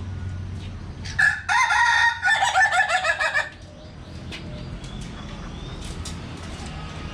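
A rooster crowing once, loud and wavering, starting about a second in and lasting roughly two seconds, over a steady low hum.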